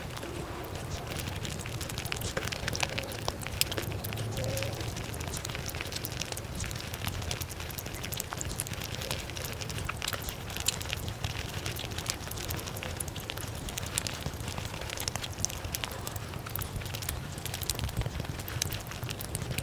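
Close-miked ASMR eating sounds of cake and sweets played at five times speed: chewing and mouth noises turned into a dense, continuous run of fast clicks and crackles over a low steady hum.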